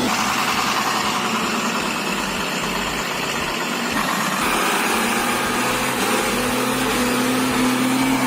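An engine running steadily, its sound changing about four seconds in.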